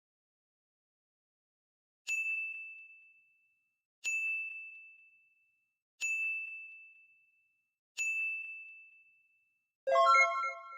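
Four identical bell-like dings, evenly spaced two seconds apart, each ringing out on one high pitch and fading. Near the end, a brighter chime of several notes at once.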